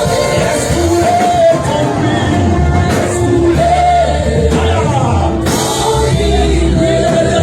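Live gospel worship music: voices singing a held, swelling melody over band accompaniment.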